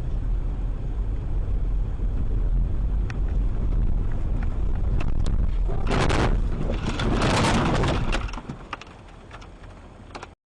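A car driving, recorded by a dash camera inside it: a steady low road-and-engine rumble, with a louder rushing noise about six to eight seconds in and scattered ticks. The sound then cuts off abruptly.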